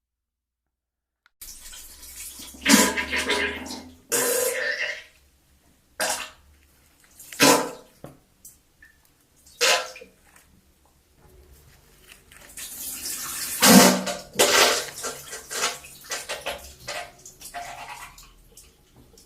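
A string of wet poop sound effects: watery splashes and splatters, some short, some drawn out, starting after about a second and a half of silence. The longest, densest run comes about two-thirds of the way through.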